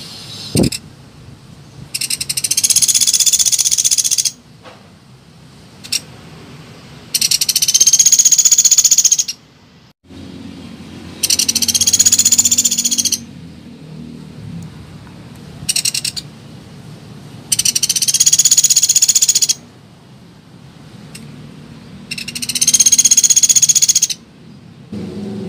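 Pelatuk beras woodpecker calling: a high-pitched rapid trill lasting about two seconds, repeated five times at roughly five-second intervals.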